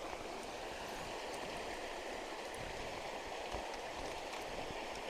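Water of a spring-fed creek running steadily, an even rushing flow.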